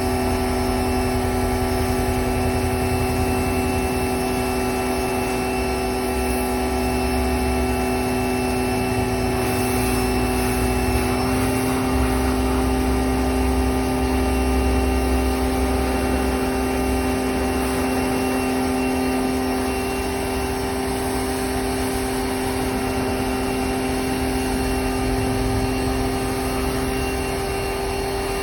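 A motor running steadily at a constant pitch, with a low rumble that comes and goes beneath it.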